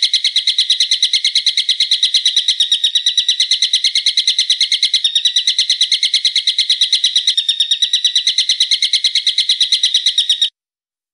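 A songbird's sharp, rapid call, about nine high notes a second repeated in a long unbroken run, stopping shortly before the end.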